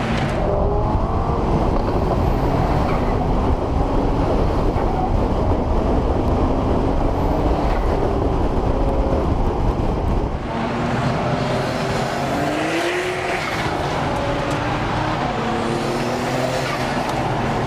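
Performance car engine being driven hard, its pitch climbing and falling repeatedly through revs and gear changes over a heavy low rumble. The sound changes abruptly about ten seconds in, with the low rumble thinning, and further rising revs follow.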